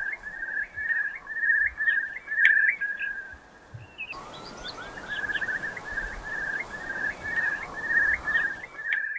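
Eurasian curlew giving its bubbling song: a steady run of short trilled notes, about two a second, each ending in an upward flick. About four seconds in a rising whistled note comes in before the trilling carries on.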